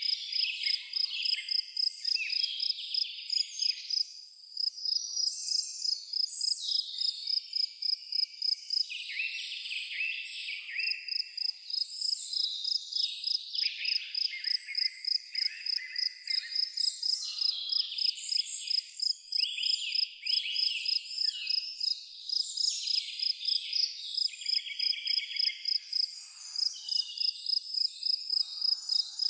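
An insect chirping in a steady, even pulse about three times a second, with several birds singing varied chirps and quick falling whistles over it.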